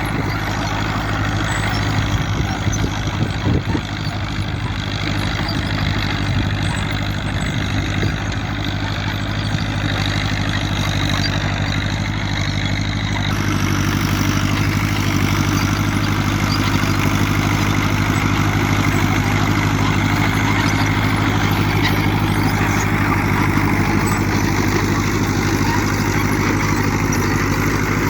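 Fiat 70C crawler tractor's diesel engine running at a steady speed, with a few short rattles in the first few seconds.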